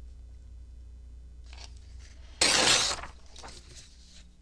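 Paper being torn: one loud short rip, about half a second long, a little over two seconds in, with fainter paper handling before it.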